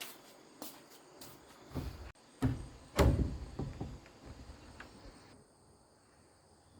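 A few dull knocks and thumps, the loudest two about two and a half and three seconds in, then quieter, with a faint steady high chirring behind.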